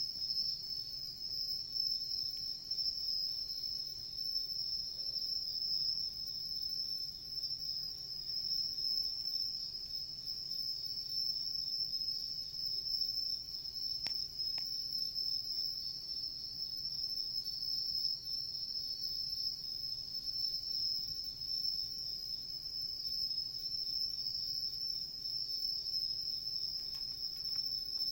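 Crickets chirping in a steady chorus, one continuous high-pitched trill, with a couple of faint clicks about halfway through.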